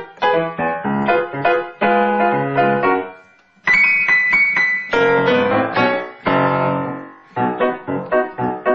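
Piano music, a run of notes and chords with a brief pause about three and a half seconds in.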